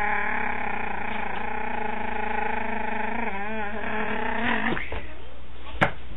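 A person's voice holding one long, droning nonsense sound, which wobbles in pitch about three and a half seconds in and breaks off about a second later. A sharp click follows near the end.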